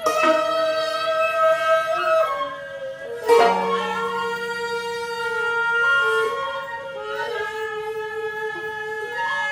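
Korean traditional chamber ensemble playing slow pungryu music: long, held melodic notes from flutes, piri and the bowed haegeum, with sharp plucked notes from the zithers at the start and about three seconds in.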